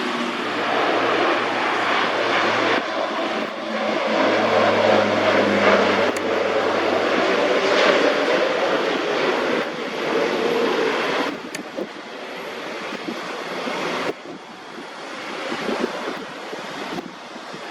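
Turboprop airliner's engines and propellers droning steadily at takeoff power, dropping off after about eleven seconds as the aircraft climbs away.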